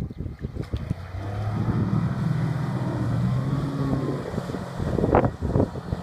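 Suzuki DF50 four-stroke outboard motor running at a steady speed. Its note comes in about a second in and fades just after four seconds, with wind buffeting the microphone, a few knocks, and a loud thump about five seconds in.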